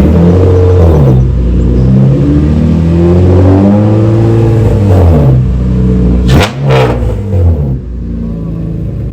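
Car engine being revved over and over, its pitch climbing and falling, with two quick sharp blips about six and a half seconds in, then settling back toward idle.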